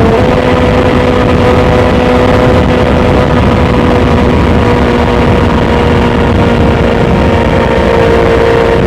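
BMW S1000XR's inline-four engine through a full Akrapovic titanium exhaust, heard onboard while riding at steady, nearly constant revs, the pitch barely changing, over wind and road noise.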